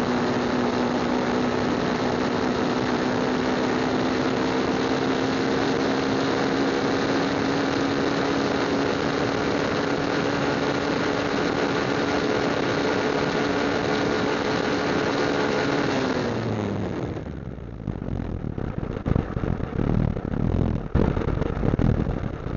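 Motorcycle engine holding a steady note under a broad rush of wind and road noise. About sixteen seconds in, the engine note falls away and the rush dies down, leaving an uneven low gusty rumble.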